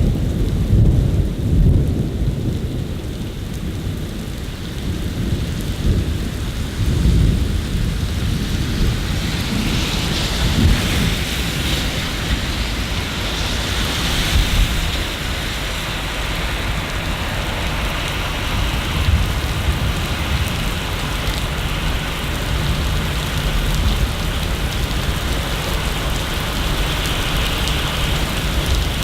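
Steady rain with a deep rolling rumble of thunder underneath, the rumble strongest in the first couple of seconds. The rain's hiss grows louder about ten seconds in.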